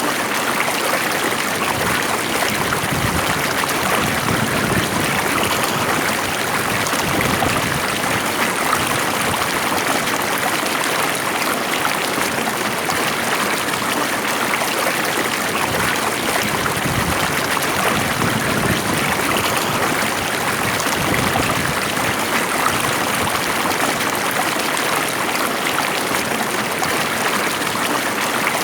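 A stream of water flowing steadily over rocks, a continuous even rush and babble.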